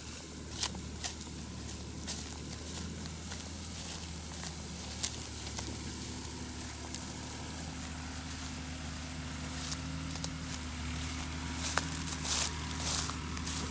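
Indofarm tractor's diesel engine running steadily, with scattered sharp clicks and crackles that grow busier near the end.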